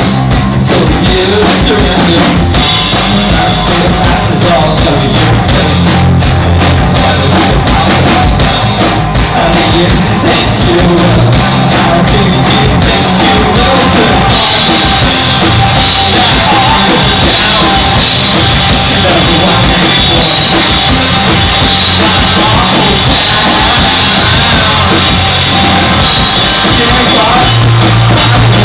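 Loud live noise-rock band playing with a hard-hit drum kit. For about the first half the drums stand out as rapid hits. After that the sound thickens into a steady wall of cymbal wash and band noise.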